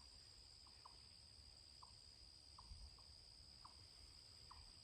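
Faint crickets trilling steadily at a high pitch, with about eight short, soft chirps scattered irregularly through it.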